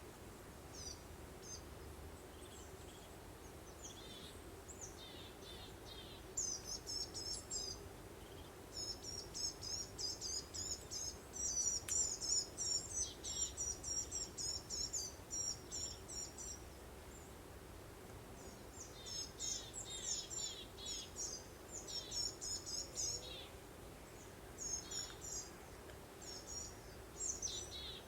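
Small songbirds singing in fast runs of repeated high chirps, starting a few seconds in and pausing briefly past the middle, over a steady low background noise of breeze.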